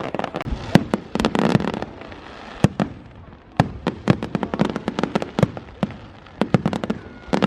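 Fireworks display going off: a rapid series of sharp bangs and cracks from exploding aerial shells, with a dense crackling burst about a second in.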